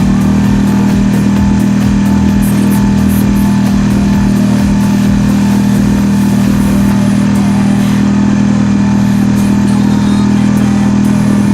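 Marlin 5 hp four-stroke outboard motor running at steady throttle with an even, unchanging pitch.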